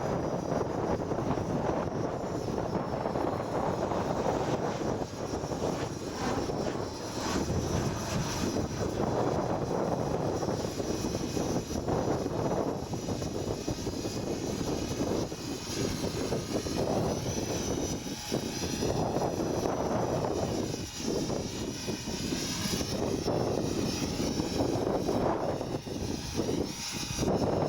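Electric RC helicopter (Align T-REX 500 ESP) flying, its motor and rotor whine wavering up and down in pitch as it manoeuvres, over heavy wind buffeting the microphone.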